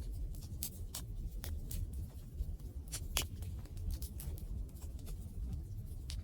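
Wood fire crackling: irregular sharp pops and snaps, a few each second with one louder pop about three seconds in, over a steady low rumble of the burning fire.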